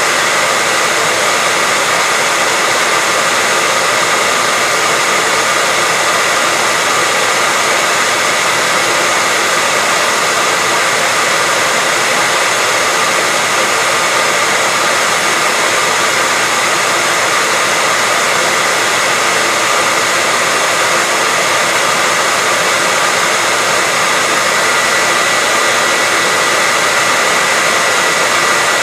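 Hair dryer running steadily, a constant whooshing hiss with a faint steady whine, used as white noise to lull a baby to sleep.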